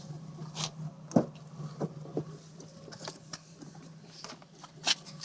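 Dodge Intrepid V6 engine idling with a steady low hum and no timing chain rattle; the owner credits Marvel Mystery Oil with quieting it. Irregular sharp clicks and rustles sound close by, the loudest about a second in and near the end.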